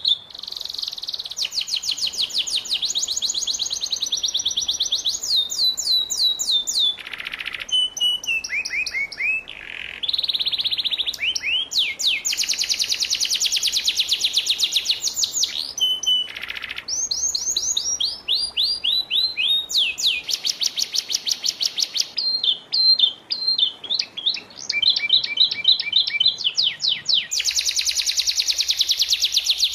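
Domestic canary singing a long unbroken song: phrase after phrase of fast repeated notes and trills, some phrases sliding down in pitch.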